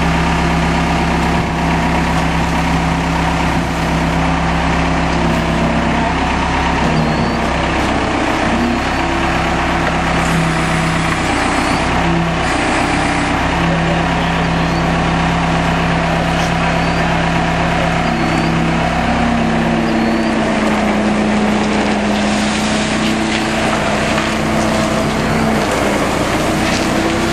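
Skid steer engine running steadily while the machine is worked; its speed shifts now and then, and it climbs to a higher pitch about twenty seconds in and holds there.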